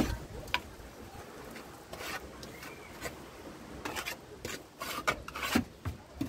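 Irregular short scraping strokes of a hand tool rubbing on rough masonry.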